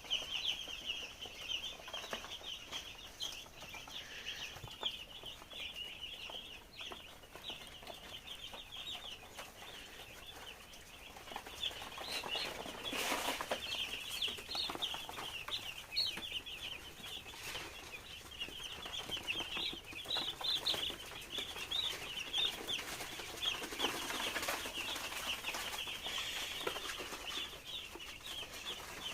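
A flock of two-day-old broiler chicks peeping continuously, with many high, short cheeps overlapping. A brief noise comes about halfway through.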